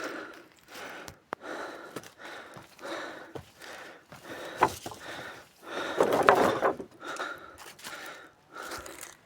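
A person breathing hard, in repeated panting breaths, while walking on foot through brush, with footsteps crunching on the ground; a louder crunching stretch comes about six seconds in.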